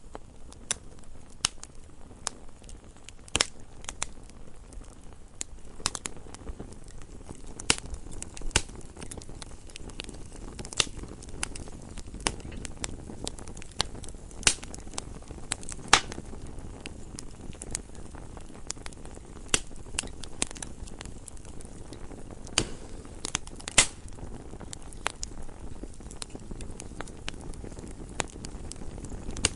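Wood fire burning in a fireplace: a low steady rush of flame with irregular sharp crackles and pops from the burning logs, a few of them much louder than the rest.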